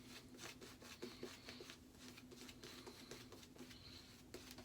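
Faint, quick scratchy rubbing of a boar-bristle shaving brush working lather over stubble, in many short irregular strokes, over a faint steady hum.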